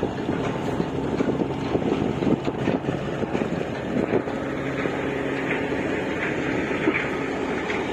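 Large diesel engine of a river dredger running steadily, a droning hum with several held tones and an irregular rattle over it.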